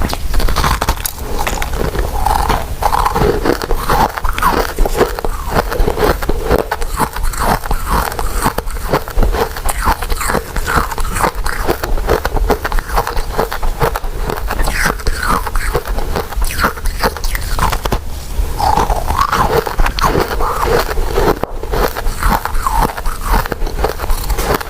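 A person chewing soft, sticky glutinous rice desserts: continuous wet, smacking mouth sounds with many small clicks.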